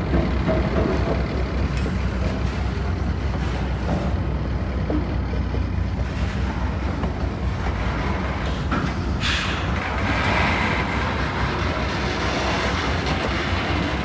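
Freight train rolling past with a steady low rumble, growing brighter and harsher about nine seconds in.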